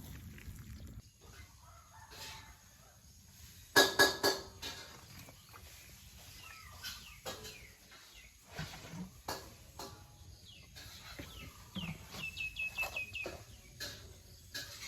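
Birds calling outdoors: one loud short call about four seconds in, scattered calls and clicks, and a quick run of high chirps near the end.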